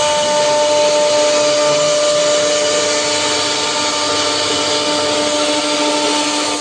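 CNC router spindle running with a steady whine over the rushing noise of the bit cutting wood.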